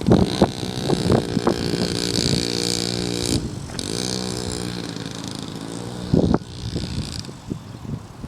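Small engine of a mini dirt bike running, its pitch dipping and then climbing again a few seconds in, growing quieter toward the end.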